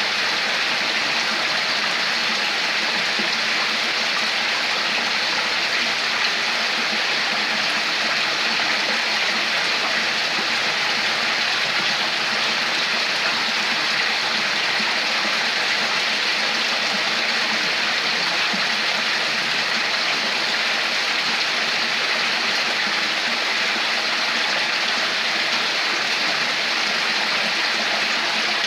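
Water flowing and splashing over rocks in a stream, a steady even rush.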